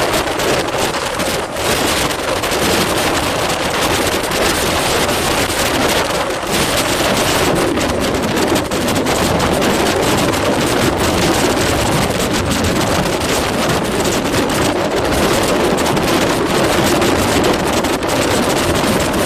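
Loud, steady wind buffeting the microphone, with a vehicle's running noise underneath.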